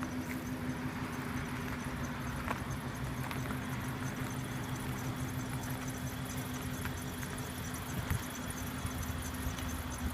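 Range Rover's 4.2-litre supercharged V8 idling steadily, with a low, even hum.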